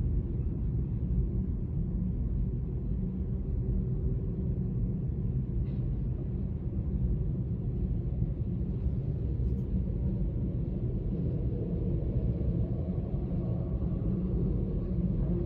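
Freight cars of a Union Pacific manifest train rolling past: a steady low rumble of steel wheels on rail.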